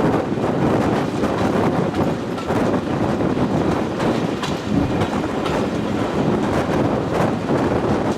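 A train running along the track: steady running noise with scattered short knocks from the wheels.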